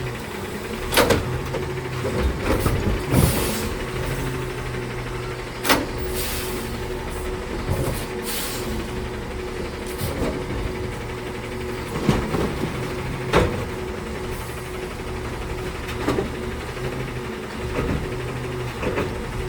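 Garbage truck's diesel engine running steadily, with repeated sharp metal clanks and bangs every second or two and a few short hisses in the first half.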